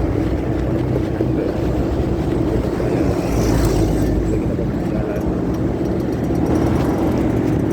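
Motorcycle riding noise picked up by a phone in a pocket: a steady, muffled rumble of engine and wind, with little above the low end.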